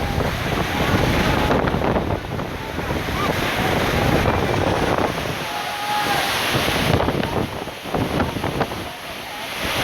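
Rushing floodwater with wind buffeting the microphone, and faint voices in the background.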